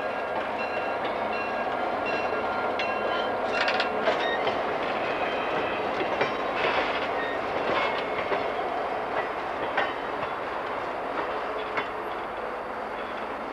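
Passenger coaches and a trailing caboose rolling past at low speed, their wheels clicking irregularly over the rail joints, with brief high squeaks over a steady rolling rumble.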